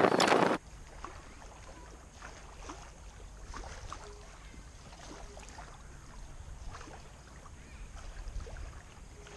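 Small splashes and light knocks around a kayak on the water, over a low rumble of wind on the microphone. A louder sound at the start cuts off sharply about half a second in.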